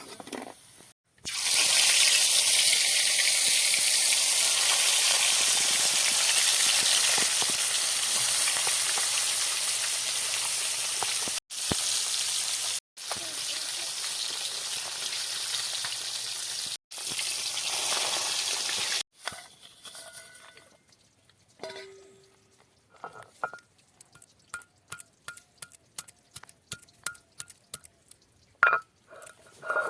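Food sizzling in hot oil in a cooking pan, a loud steady hiss broken by several abrupt cuts, giving way after about 19 seconds to scattered light clicks and clinks.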